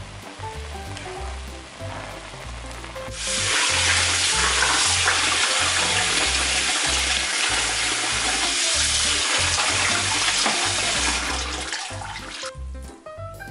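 Bubbling of a boiling pot under background music, then from about three seconds in, kitchen tap water running hard into a sink and glass bowl to rinse the parboiled chicken feet, cutting off near the end.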